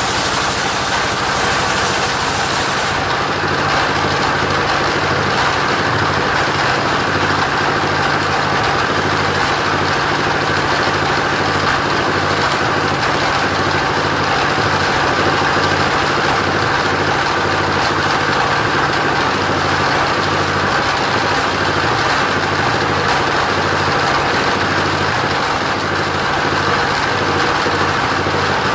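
Engine of a motorized wood saw running steadily. A high hiss fades about three seconds in.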